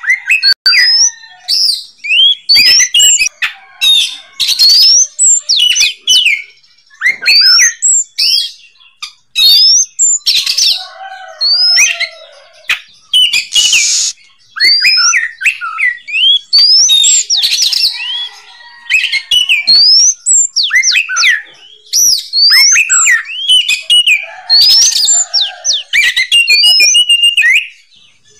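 Oriental magpie-robin (kacer) in full continuous song: a rapid run of loud whistled notes sliding up and down, broken every few seconds by short harsh, raspy bursts.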